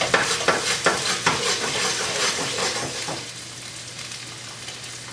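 Tofu sizzling in hot oil in a non-stick frying pan as the pan is shaken, with a quick run of sharp crackles over the first three seconds. After that it settles to a steadier, quieter sizzle.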